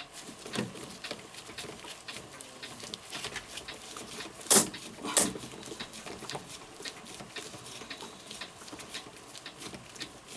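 Light clicks and taps from hand work on a clock movement while its mainspring is being let down, with two sharp, much louder clicks about four and a half and five seconds in.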